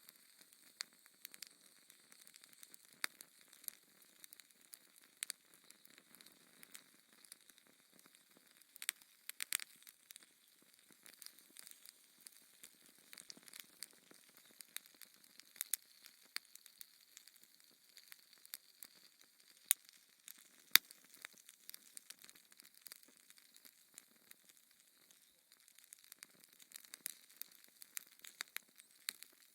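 Fireplace fire crackling: a faint steady hiss with irregular sharp pops, the two loudest about twenty seconds in.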